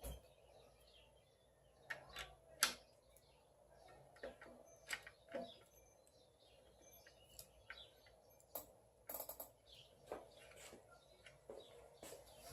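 Faint, scattered clicks and light taps at irregular intervals, from tools and engine parts being handled while the alternator is mounted, with a short cluster of clicks about nine seconds in.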